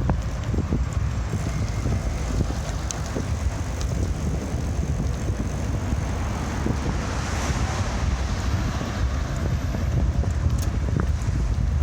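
Wind buffeting the microphone of a moving bike's camera: a steady low rumble with hiss over it, a few light clicks, and a broader hiss swelling about seven seconds in.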